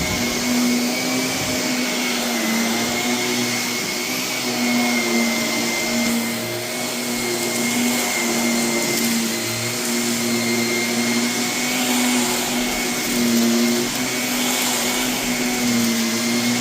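Canister vacuum running steadily with a constant motor whine, sucking construction debris, including bits of metal, off a carpet, with faint crackles from the debris now and then.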